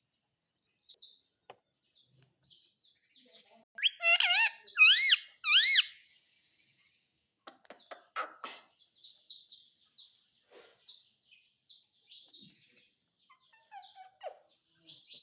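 Pet parrot making soft, short chirps, then about four seconds in three loud screechy calls that swoop up and down in pitch, followed by a few sharp clicks and more soft chirping.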